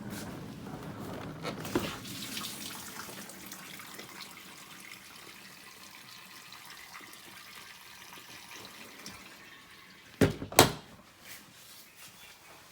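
Water rushing and splashing inside a Bosch dishwasher, loudest at first and fading over the next few seconds. Two sharp knocks come close together about ten seconds in.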